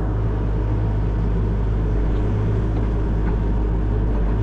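Excavator's diesel engine running steadily under work, a constant low drone.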